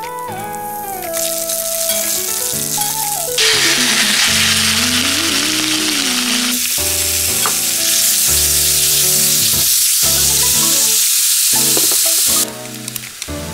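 Sliced pork with garlic and green onion frying in hot oil in a stainless steel wok. A loud sizzle starts suddenly about three seconds in and cuts off shortly before the end. Background music with a melody plays throughout.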